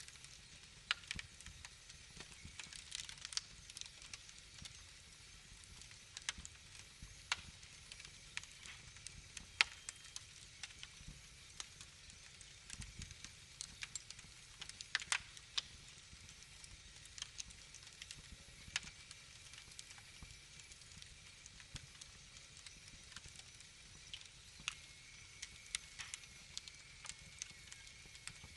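Wood fire in a fireplace crackling, with irregular sharp pops and snaps over a soft low rumble.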